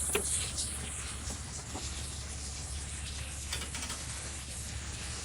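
Steady hiss and low hum of background noise, with a few faint clicks.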